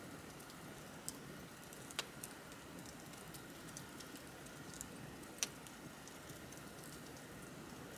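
Wood bonfire crackling: a few sharp pops and snaps over a soft steady hiss of burning, the loudest pop about five and a half seconds in.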